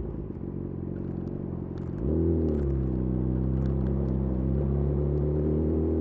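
Yamaha YZF R6 inline-four running through a de-catted Akrapovic slip-on exhaust. It runs steadily at first; about two seconds in the throttle opens, the revs climb quickly, and it holds a louder, steady note.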